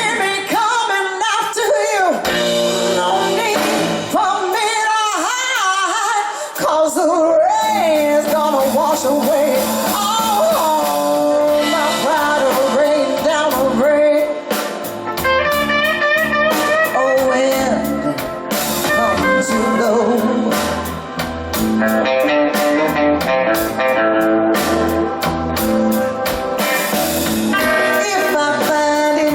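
Live blues song: a woman singing with bending, held notes over electric guitar accompaniment. The backing is sparse at first and fills out with bass and drums about seven seconds in.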